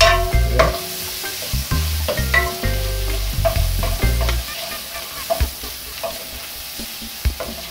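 Diced vegetables frying and sizzling in melted butter in an aluminium pot, stirred and scraped with a wooden spoon that knocks against the pot now and then. The sound drops in loudness about four seconds in.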